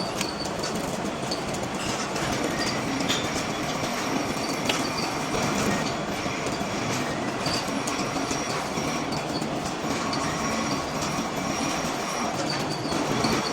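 Steel being machined: a steady metal-cutting noise with a thin, high metallic whine and scattered light ticks and clinks.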